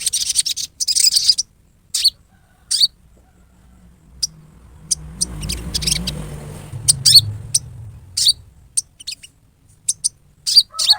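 Sogon bird giving harsh, high-pitched chattering riwikan calls, in quick bursts and spaced single notes, the kind of call used to provoke other sogon into calling. A low rumble underlies the calls for a few seconds in the middle.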